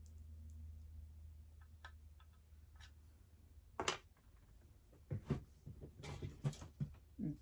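Small clicks and knocks from handling the doll high chair's parts while gluing its joints: one sharp click about four seconds in, then a run of knocks near the end. A low hum fades out in the first couple of seconds.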